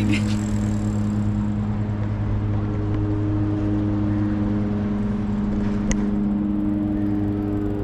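A motor running steadily: an even, low hum that holds the same pitch throughout, with a single short click about six seconds in.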